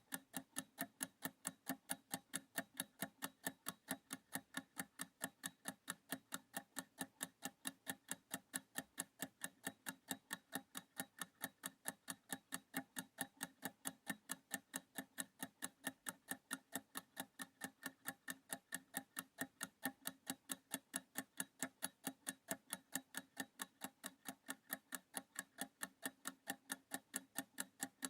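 Clock-style ticking of a countdown timer, a fast, even, faint tick, marking off a 30-second practice period.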